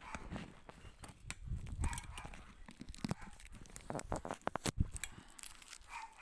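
A dog barking a few short times, between sharp clicks and rustling noises.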